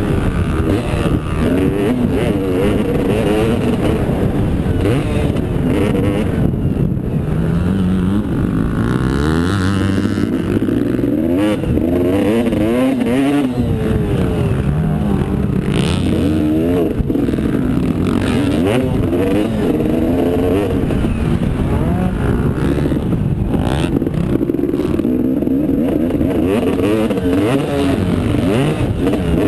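Motocross motorcycle engines revving up and down without a break, the pitch repeatedly climbing and dropping as the bikes accelerate and shift.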